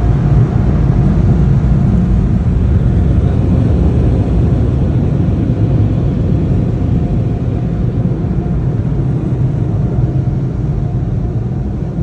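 Car wash drying blowers blasting air over the car, heard from inside the cabin as a loud, steady rush of air with a deep rumble, easing off over the last few seconds.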